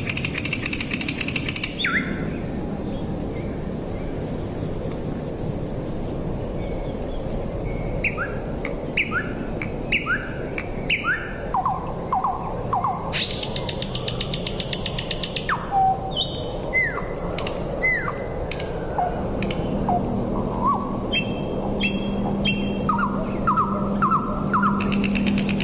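Birds chirping: many short, quick downward-sliding calls over a steady background hiss. A low steady hum comes in about two-thirds of the way through.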